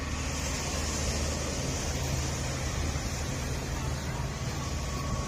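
Steady rumble of a car being driven along a road, with tyre and road noise.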